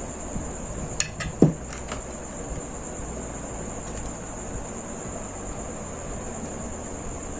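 Cable cutters snipping a charger's power cable: a few sharp clicks about a second in, then a short falling squeak, over a steady high-pitched whine.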